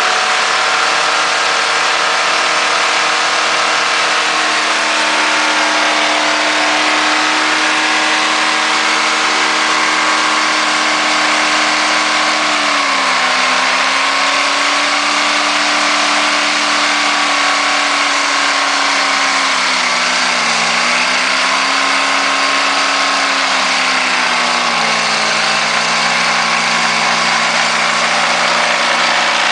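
1965 Ford Falcon engine held at high revs with the throttle pinned open, running steadily. Its pitch sags a little about halfway through and steps down again near the end, the engine labouring as it is run to destruction without coolant and with sand fed into it.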